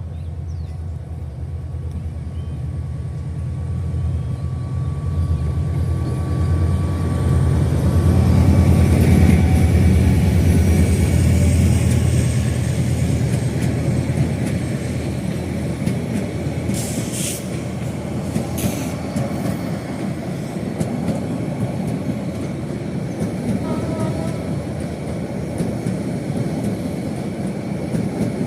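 Passenger train running past: a low rumble builds to its loudest about ten seconds in, then the rolling noise of the coaches carries on steadily, with two brief sharp sounds a little past halfway.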